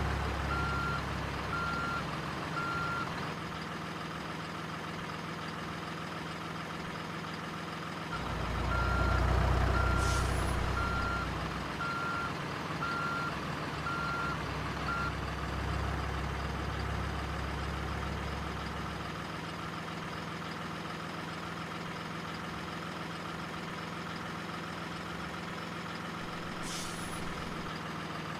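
Remote-control model truck's electronic sound module: a reversing beeper sounding a little under once a second at the start and again from about eight to fifteen seconds in, over a steady engine hum that swells twice. Two short hisses, one about ten seconds in and one near the end.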